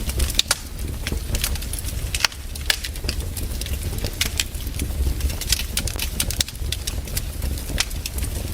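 Wood fire in a fireplace crackling, with many sharp, irregular pops over a low steady rumble.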